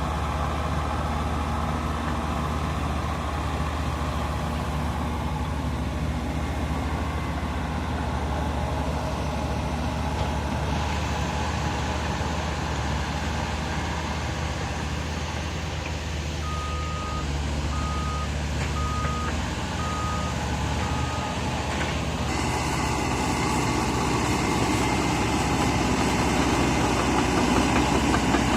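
Diesel engines of heavy earthmoving machines running steadily. About halfway through, a reversing alarm beeps five times at an even pace.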